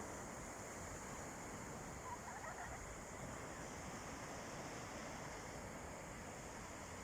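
Gentle sea waves washing on a beach, a steady even wash, with a little wind on the microphone. A faint brief chirp is heard about two seconds in.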